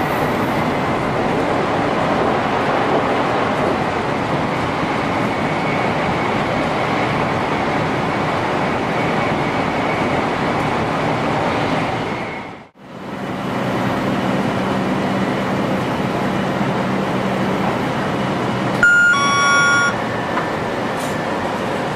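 500 Series Shinkansen running at speed, heard from the driver's cab as a steady rushing noise. It dips out briefly about halfway through and comes back with a low hum. Late on, a short cab chime of about a second sounds as the ATC speed-control signal comes up for the Nagoya stop.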